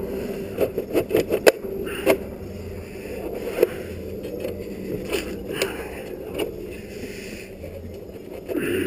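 Hands working a motorcycle's plastic bodywork panel into place: a quick run of sharp clicks and knocks in the first two seconds, then scattered single clicks and scrapes, over a steady low hum.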